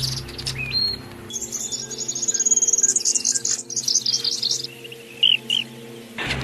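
A small bird chirping: a fast, high-pitched trill lasting about three seconds, then two short chirps. It breaks off abruptly near the end.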